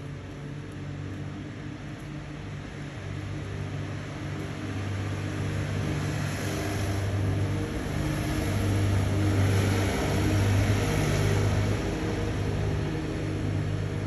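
Traffic noise: a low steady engine hum with a vehicle passing, building to a peak about ten seconds in and then fading.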